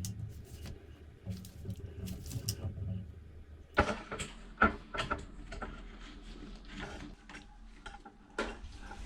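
Irregular handling noise: light clicks and rattles, with two sharp knocks about four and five seconds in, then more small clicks and taps.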